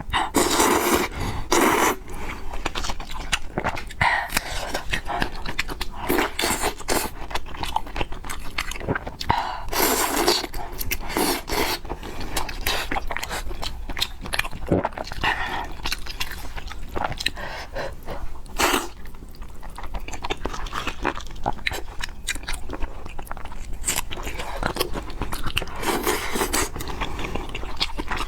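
Close-miked eating sounds of spicy fried noodles and pork: wet chewing and biting with irregular clicks and crunches, and utensils now and then scraping the bowl.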